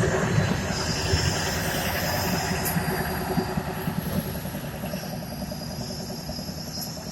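CNG-powered passenger train running away, its engine throbbing and its wheels rumbling, fading steadily, with a faint high wheel squeal.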